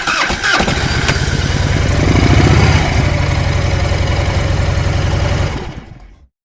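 Motorcycle engine started on the electric starter: a brief crank, then it catches about half a second in and runs with a low, even pulse. It rises slightly around two seconds in, then fades out.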